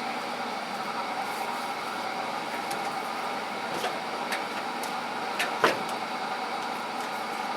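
Small parts being handled and set into a toolbox drawer: a few light clicks, then one louder clack about three quarters of the way through, over a steady background hum.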